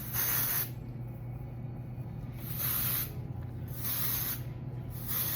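Aerosol dry shampoo sprayed in four short hissing bursts, each about half a second, aimed at the greasy roots of unwashed hair.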